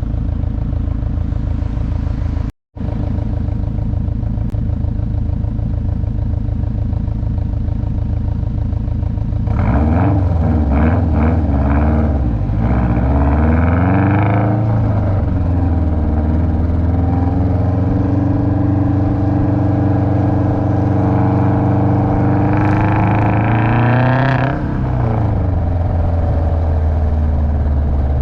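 Car engine under way, running steadily at first, with the sound cutting out for a moment about two and a half seconds in. From about ten seconds in it revs up and down several times, then pulls up again and eases off about twenty-five seconds in.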